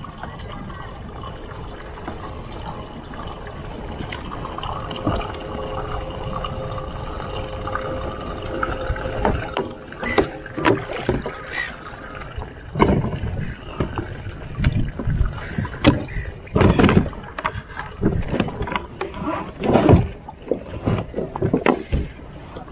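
A kayak on the water: steady water and wind noise, then from about ten seconds in a run of irregular splashes and knocks.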